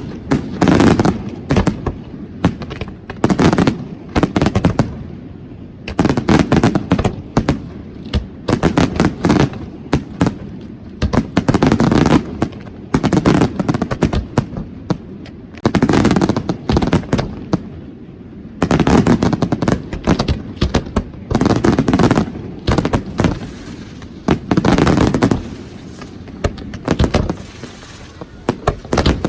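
Fireworks display: rapid salvoes of loud bangs and crackling, coming in dense clusters about every two to three seconds.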